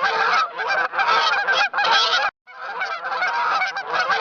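A flock of geese honking, many overlapping calls at once, with a brief pause a little past halfway before the honking resumes.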